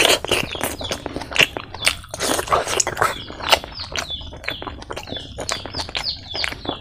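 Close-miked wet chewing of a mouthful of fatty spicy pork belly with rice: a dense, loud mouthful going in at the start, then a quick run of sticky, smacking clicks as it is chewed.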